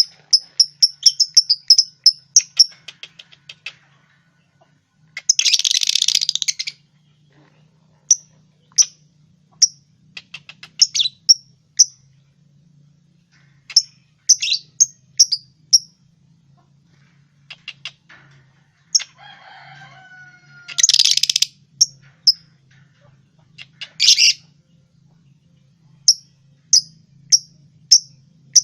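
Lovebirds chirping: sharp, high single chirps repeating throughout, a fast run of chirps at the start, and harsh screeches about six seconds in and again around twenty-one and twenty-four seconds in.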